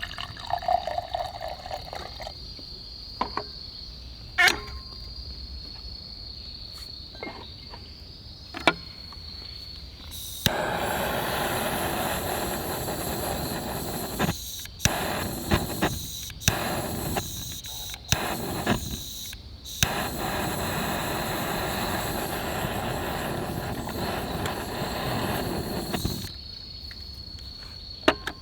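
Insects trilling steadily in the background, with scattered clicks and knocks. For about the middle half, a louder even hissing noise with short breaks covers it, then stops suddenly.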